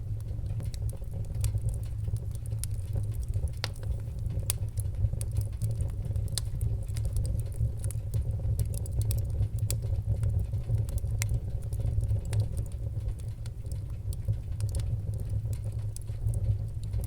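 Wood-burning fire crackling, with irregular sharp pops and snaps over a steady low rumble.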